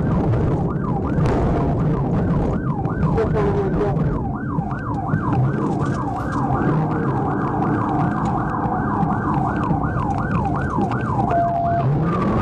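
Police car siren on yelp, its pitch sweeping up and down rapidly about three times a second, over the steady rumble of a car driving fast. The sweeps stop near the end, leaving a brief held tone.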